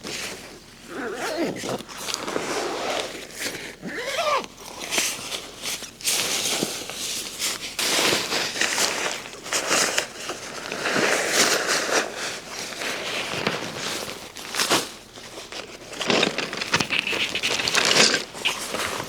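Irregular rustling and crinkling handling noise, with a few short squeaky glides in the first few seconds.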